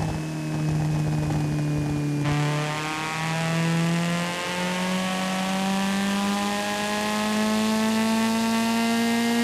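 Car engine in a driving video game, pulling under acceleration with its pitch rising slowly and steadily, with a short break about four and a half seconds in.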